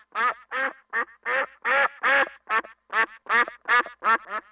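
A duck quacking repeatedly, a steady series of short, nasal quacks at about two to three a second.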